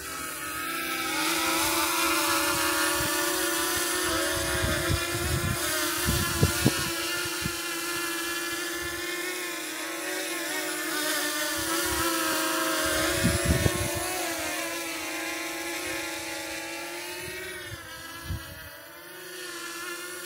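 A quadcopter drone's motors and propellers whirring: a stack of tones whose pitch keeps wavering up and down. There are a few short low bumps about six and thirteen seconds in.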